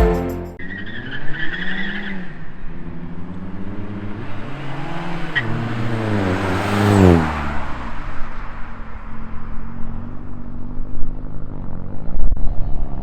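Mk4 Volkswagen Jetta's engine on a hard acceleration pull: the engine note climbs in pitch and drops back several times as it works through the gears, with a rush of noise that builds to a peak about seven seconds in.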